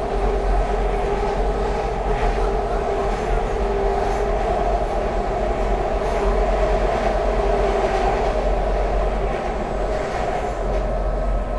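Market-Frankford Line el train running between stations, heard from inside the car: a steady running noise of wheels on rail, with a faint steady high tone over it.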